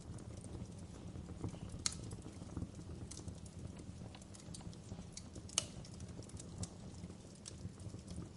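Wood fire crackling in a fireplace: irregular sharp pops and ticks over a low steady rumble, with two louder pops about two seconds in and a little past halfway.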